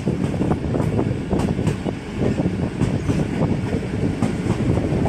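Train wheels running on the track, heard from a passenger coach window: a steady low rumble with many quick, irregular clicks and knocks from the rails.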